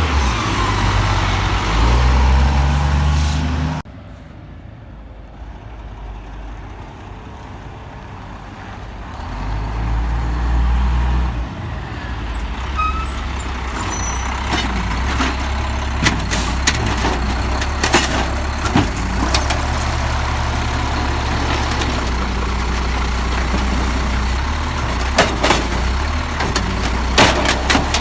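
Peterbilt 320 garbage truck with an Amrep Octo automated side-loader working: the engine is revved with a whine that rises and falls, drops suddenly to a low idle about four seconds in, then picks up again. Sharp clanks and knocks follow through the second half.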